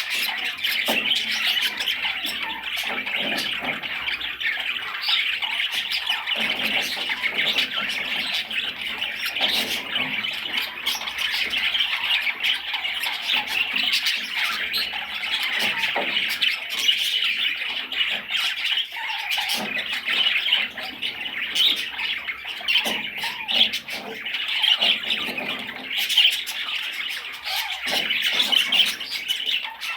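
Budgerigar chattering without pause: a dense stream of scratchy chirps and squawks, with many short clicks mixed in.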